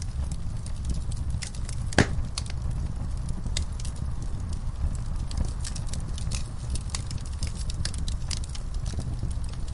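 Wood fire burning in a fireplace, a low steady rumble of flames under frequent small crackles, with one sharp loud pop about two seconds in.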